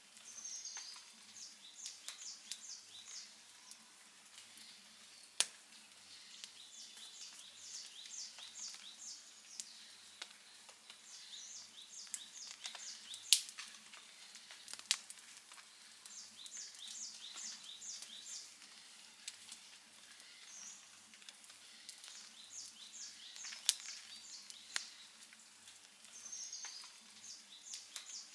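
Wood campfire crackling, with scattered sharp pops; the loudest pop comes about halfway through. Over it, high-pitched chirping in short quick series repeats every few seconds.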